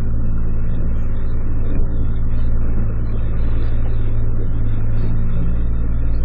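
Small fishing boat's engine running steadily, a low even drone that does not change in pitch or level.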